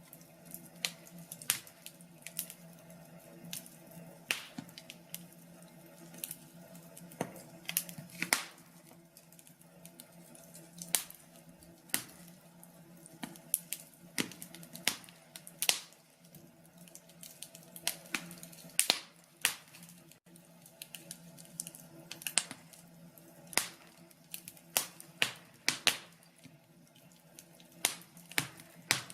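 Wood fire crackling in a fireplace: irregular sharp pops and snaps, a few each second and of varying loudness, over a low steady hum.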